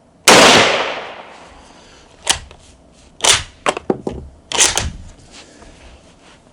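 A Yugoslavian M48 Mauser bolt-action rifle fires one 7.92×57mm shot just after the start, the report ringing and fading over about a second. Between about two and five seconds the bolt is worked in a series of sharp metallic clacks, run firmly to chamber the next round.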